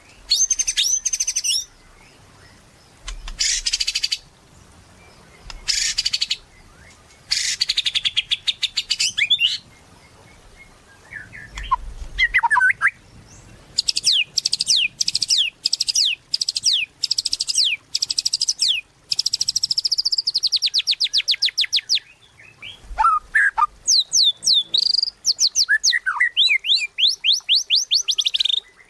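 White-rumped shama (murai batu) singing in bursts: rapid, high, repeated trills and chattering phrases separated by short pauses, with a few lower whistled notes in between.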